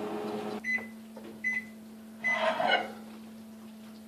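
Microwave oven running with a steady hum that cuts off just over half a second in, followed by three short end-of-cycle beeps about three-quarters of a second apart, signalling that the cooking time is up. A brief clatter overlaps the last beep.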